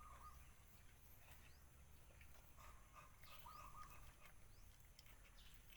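Near silence with faint, short high-pitched animal calls in three brief bouts: one at the start, two more around the middle.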